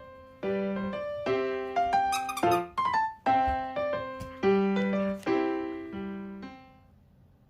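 Background music: piano or electric piano playing a short phrase of chords, which fades out near the end.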